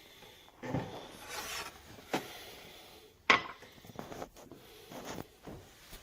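Objects being handled: rubbing and scraping with several sharp knocks, the loudest about three seconds in.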